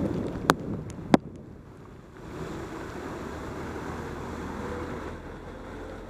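Wind rushing over a helmet camera's microphone on a bicycle descent in rain, with two sharp clicks about half a second apart near the start; the rushing dips briefly and then picks up again.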